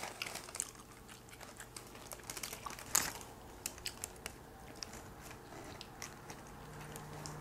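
Mouth-close chewing of a fast-food chicken sandwich, with small wet clicks and faint paper-wrapper rustles from food being handled. One sharper click comes about three seconds in, over a faint steady low hum.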